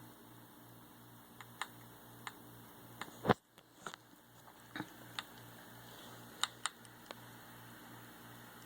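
Lenovo computer making a low hum that pulses on and off about four times a second, the noise it has developed. Scattered sharp clicks come through it, the loudest about three seconds in.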